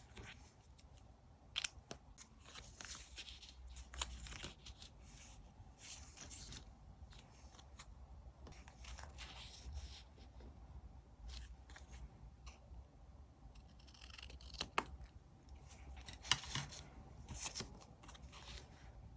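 Scissors cutting paper in a series of crisp snips, mixed with paper handling and a few sharp clicks.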